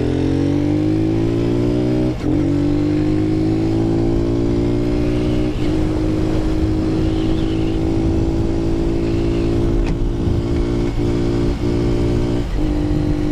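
Lifan KP Mini 150 motorcycle's single-cylinder engine pulling hard under acceleration. Its pitch rises, drops briefly at upshifts about two and five and a half seconds in, then holds steady at around 50 mph, with a few short dips near the end.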